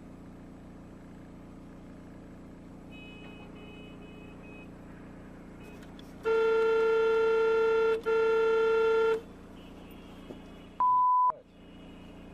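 Steady vehicle running hum, then a horn sounding loudly in two long blasts, the first about two seconds long and the second a little over one, starting about six seconds in. Near the end comes one short, pure, high beep.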